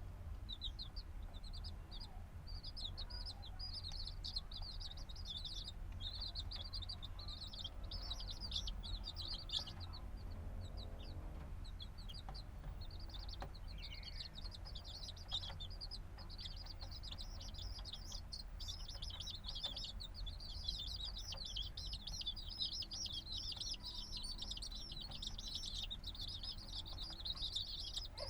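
A brood of chicks a few days old, peeping constantly in high, rapid chirps that overlap one another, with a brief lull about twelve seconds in and busier chirping in the second half.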